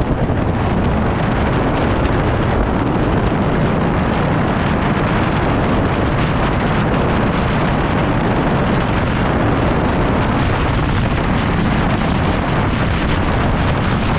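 Steady, loud wind rush buffeting the microphone of a motorcycle riding at road speed, with the motorcycle's running and road noise underneath.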